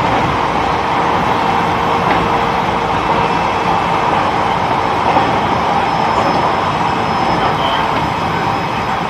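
Interior running sound of an E129 series electric multiple unit cruising steadily: continuous wheel-on-rail rumble and car noise with a faint steady whine, no acceleration or braking.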